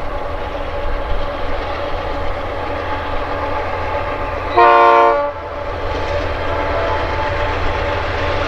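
Container freight train rolling past with a steady rumble of wheels and cars. About halfway through comes one short blast of a train horn, under a second long.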